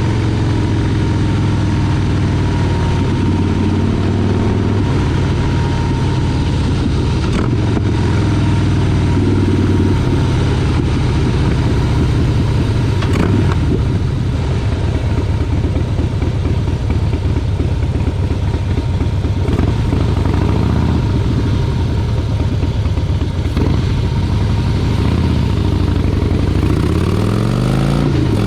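Motorcycle engine running while riding, its pitch shifting a little with the throttle, over a steady rushing noise. Near the end the revs climb in a rising sweep.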